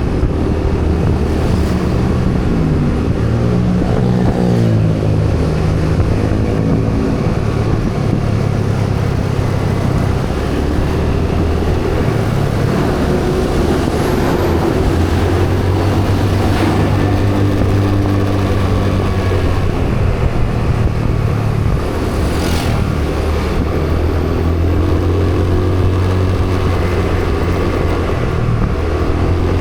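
Vehicle engine running on the road, its pitch rising and falling as it changes speed and then holding a steady drone, over continuous road and traffic noise.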